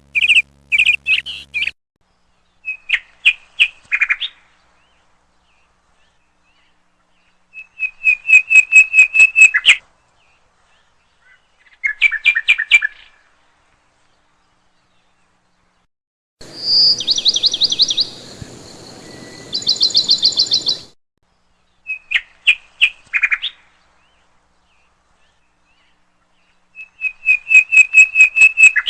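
Songbird chirping in quick series of sharp, repeated notes, about six a second, each run lasting a second or two, with silent gaps between. About halfway through, a higher-pitched, different song plays for several seconds over a faint hiss.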